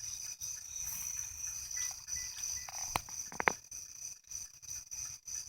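Steady high-pitched chorus of night-singing insects, with a few brief clicks or rustles about three seconds in.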